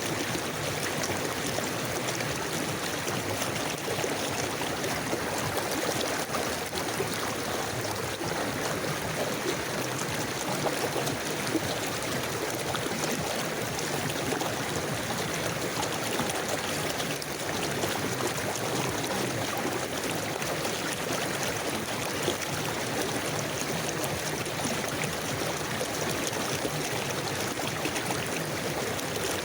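River water flowing steadily, an even rushing sound that holds unchanged throughout.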